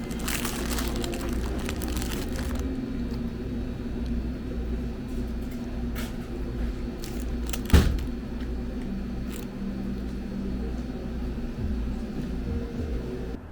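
A steady low mechanical hum with a few steady tones, and one sharp knock about eight seconds in.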